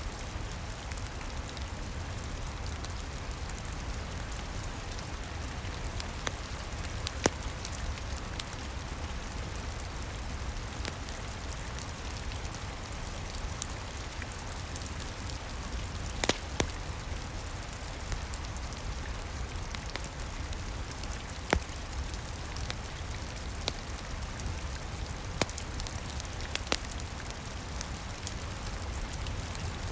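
Steady rain with a low rumble underneath, mixed with a crackling wood fire that gives a sharp pop every few seconds.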